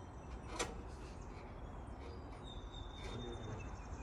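Bird calls, including a thin high whistle held for about a second and some short chirps, over a low steady rumble, with one sharp click about half a second in.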